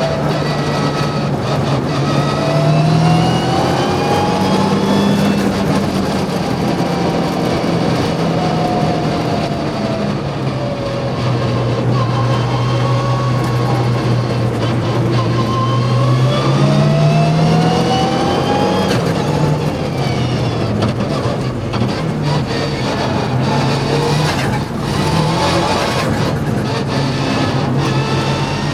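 Mitsubishi Lancer Evo VI Group A rally car's turbocharged four-cylinder engine being driven hard on track, its revs rising and falling as it accelerates, shifts and slows for corners.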